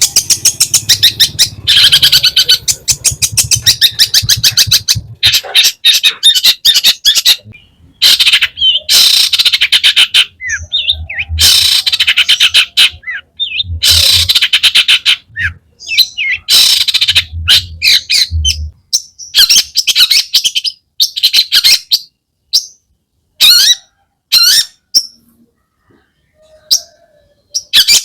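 Long-tailed shrike (cendet) singing at full volume, a mix of its own calls and mimicked calls. It gives rapid runs of harsh, chattering notes in bursts of a second or two, thinning out to short single calls in the second half.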